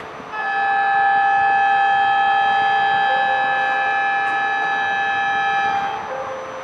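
E4 series Shinkansen horn sounding one long, steady, chord-like blast of about five and a half seconds as the train departs.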